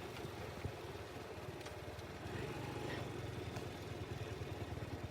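Motorcycle engine running steadily at low revs, a low even pulsing rumble.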